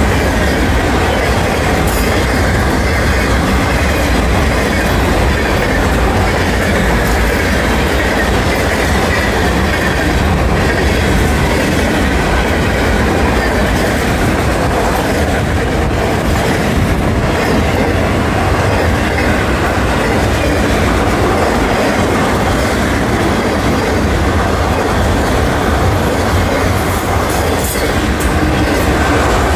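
Boxcars and autoracks of a fast Florida East Coast freight train rolling past at close range: a loud, steady rumble of steel wheels on the rails.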